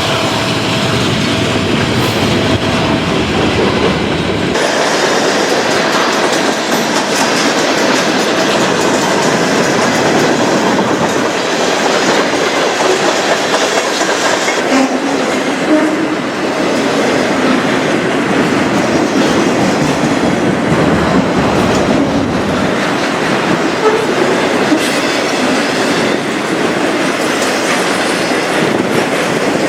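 A train passing close by: a deep rumble for the first few seconds, then the cars rolling past with steady wheel clatter on the rails.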